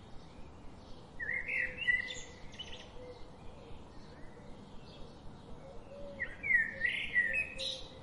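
Birds calling: two loud spells of high chirping calls, each about a second and a half long and starting about five seconds apart, with fainter chirps in between.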